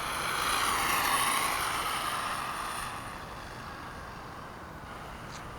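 Two-stroke gas engine of a 1/5-scale Redcat Rampage MT RC monster truck running under throttle, its pitch wavering, then easing off about three seconds in to a quieter steady drone. A slight knock in the drivetrain, which the owner puts down to a front differential crown gear missing a tooth.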